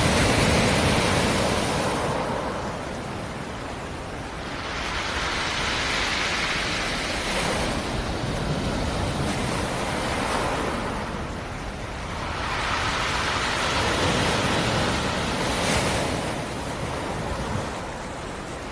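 Black Sea surf: waves breaking and washing up the shore in slow surges that swell and fade every several seconds, a steady rushing hiss with no tone in it.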